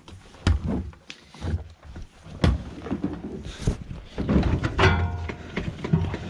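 Laundry appliance doors and laundry being handled: a series of knocks and thunks as the washing machine is opened and towels are moved into the tumble dryer, with a brief squeak about five seconds in.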